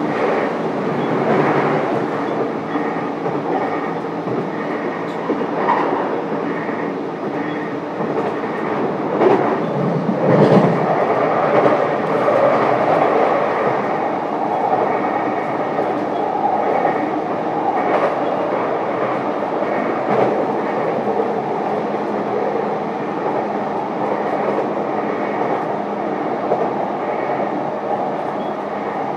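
JR East E233-series electric train heard from inside the motor car while running: steady wheel-on-rail rumble with a humming drone and clicks over rail joints. A louder clatter comes about ten seconds in.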